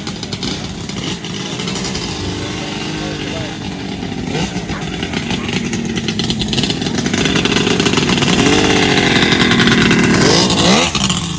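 Two-stroke motorcycle engine revving, its pitch rising and falling with each blip of the throttle, growing louder to a last sharp rev near the end before dropping away. It has a tinny two-stroke note.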